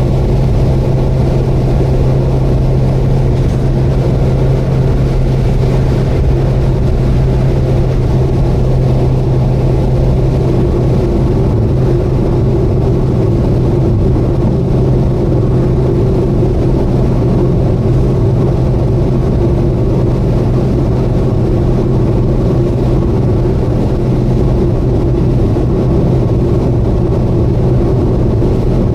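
Subaru Vivio kei car driving at a constant speed: a steady engine drone with one unchanging low note over road and wind noise.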